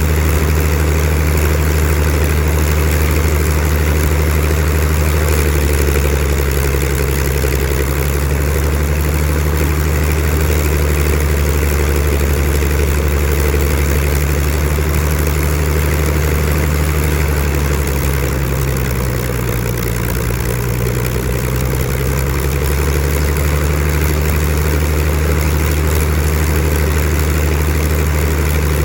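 Supermarine Spitfire Mk XIV's Rolls-Royce Griffon V12 engine running steadily on a ground run, easing off slightly in level and pitch about two-thirds of the way through before settling back.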